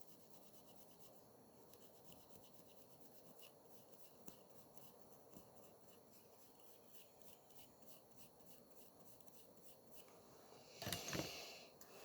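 Near silence with faint, light ticking, then a brief rubbing scrape lasting about a second near the end.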